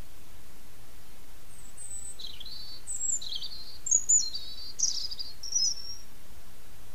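A songbird sings one phrase of quick, high chirping notes that jump back and forth between a higher and a lower pitch, starting about a second and a half in and lasting about four seconds, over a steady hiss.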